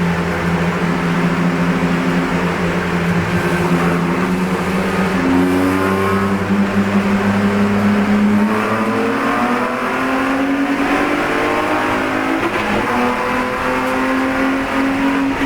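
BMW E46 race car's straight-six engine running steadily, then its pitch rising slowly through the second half as the car accelerates.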